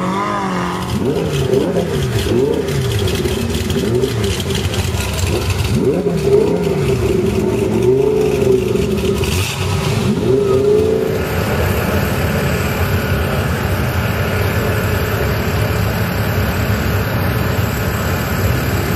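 Twin-turbo Lamborghini Gallardo V10 revved again and again, its pitch rising and falling, for about eleven seconds. Then the engine runs on with a steady sound and no more revving.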